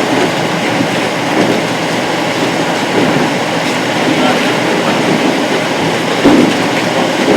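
A CH-47 Chinook helicopter running, a loud steady din of turbines and tandem rotors, with a short thump about six seconds in.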